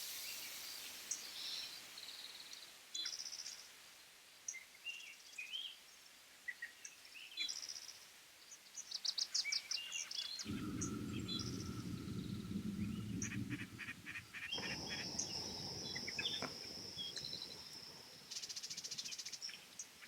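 Small birds chirping and calling on and off, with a fast high insect-like trill and a steady high whine in the second half. A low rumbling noise sets in about halfway through and lasts a few seconds.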